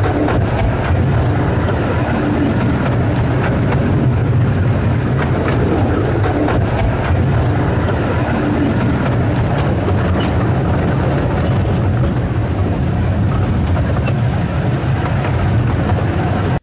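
Narrow-gauge field railway train running, heard from on board: a steady low drone from the train with a noisy rattle and frequent light clacks of wheels and carriages.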